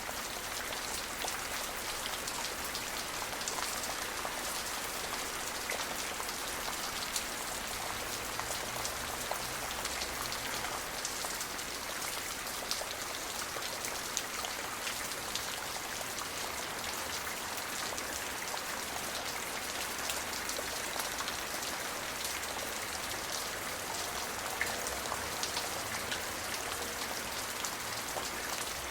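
Steady light rain: a constant hiss of rainfall with many small, sharp drop ticks spattering on a hard surface.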